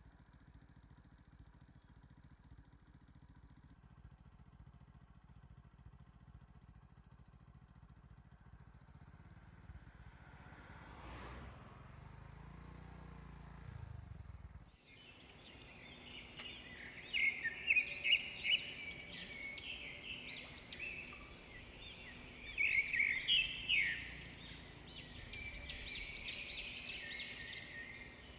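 Faint low rumble for about the first half, then, after a sudden break, birds chirping and singing in many short calls, with several loud clusters of them.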